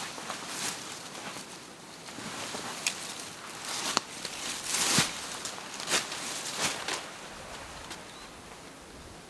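Crunching and rustling on dry forest-floor litter, with several sharp snaps of twigs; the loudest snap comes about five seconds in. The sounds die away about seven seconds in.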